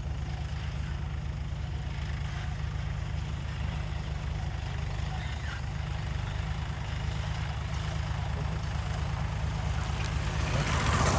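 Tractor engine running steadily with a low, even rumble. A louder rush of hissing noise swells near the end.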